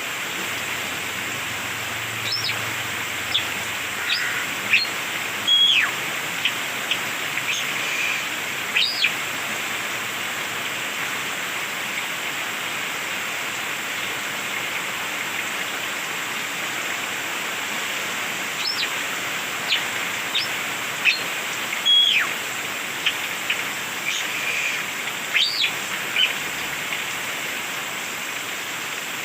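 Coleto (bald starling) calling: two runs of short, sharp whistled notes and clicks, several sliding steeply downward, about ten seconds apart, over a steady hiss.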